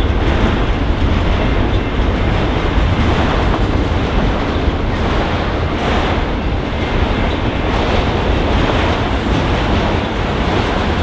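Union Pacific autorack freight train rolling past, a steady loud rumble of steel wheels on rail with faint repeated clacks from the passing cars.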